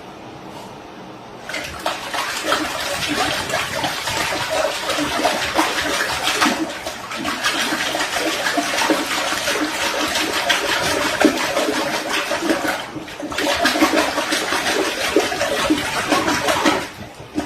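Loud rushing, splashing water that starts about a second and a half in, breaks off briefly near the end, then resumes.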